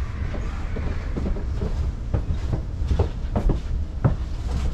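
Commuter train carriage running, heard from inside: a steady low rumble as it rolls along a platform, with about six sharp knocks from the wheels and car body at uneven intervals.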